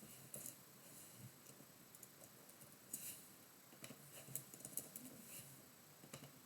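Near silence broken by faint, irregular clicks and light taps, a small cluster of them around the middle, made while a computer and camera setup is being adjusted.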